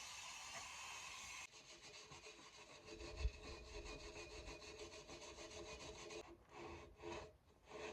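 Wire brush scrubbing grime off the backing plate of a pickup's rear drum brake, giving a rasping scrape. The scrubbing changes character abruptly about a second and a half in and again near the end, where it comes in short separate strokes, with a dull knock about three seconds in.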